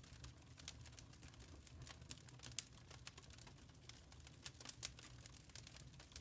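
Wood fire crackling in a fireplace: faint, irregular snaps and pops over a low steady rumble, with the sharpest pop about two and a half seconds in.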